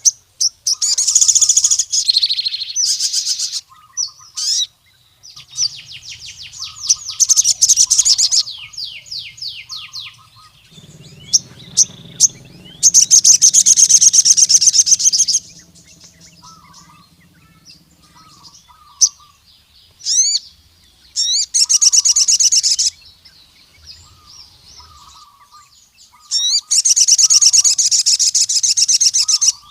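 Male crimson sunbird (sogon) singing hard, in loud, very high-pitched rapid trills of two to three seconds each, separated by short pauses filled with softer chirps. This is the vigorous territorial song used to challenge a rival male.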